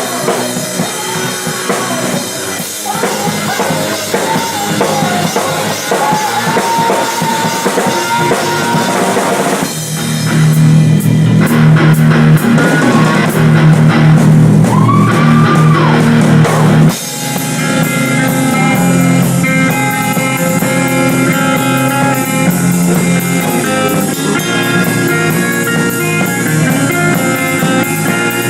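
A rock band playing, with the drum kit up front: bass drum, snare and cymbals over electric guitars. About ten seconds in, a louder, heavier section begins and then stops suddenly about seven seconds later, giving way to steady sustained guitar chords.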